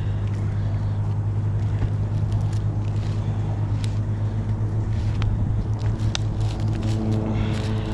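Chainsaw idling steadily at a low, even pitch, with scattered light clicks and knocks.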